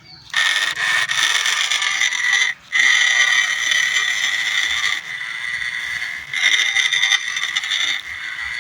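Remote-control toy tractor's small electric motor and gearbox whining at a steady pitch while driving. It cuts out briefly about two and a half seconds in, then runs on, easing off and picking up again.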